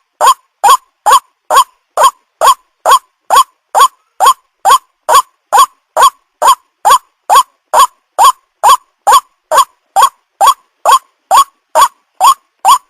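White-breasted waterhen (ruak-ruak) call played as a lure recording: one short, hooked note repeated evenly and without a break, a little over twice a second.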